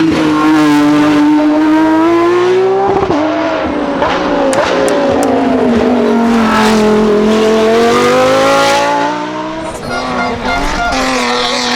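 Race car engine at high revs climbing a hill-climb course, its pitch rising and falling with throttle and gear changes. There is a sudden drop in pitch about three seconds in, and the sound dips in level near the end.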